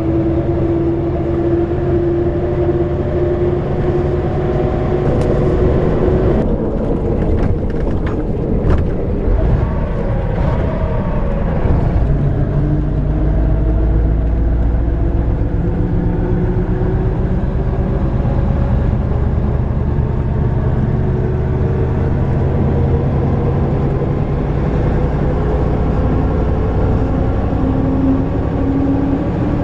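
YaMZ diesel engine of an Ikarus-250 coach running under way, heard from on board with road rumble. Its note falls over the first several seconds, and a run of knocks and rattles follows. From about halfway through, the note rises steadily as the engine pulls again.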